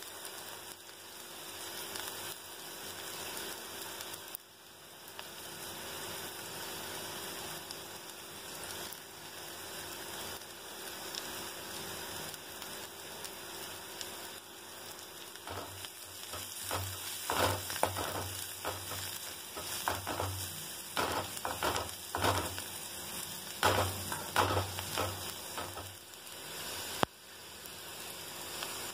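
Chopped onions, curry leaves and coriander sizzling in hot oil in a metal kadai. About halfway through, a spatula starts stirring, scraping against the pan in irregular, louder strokes.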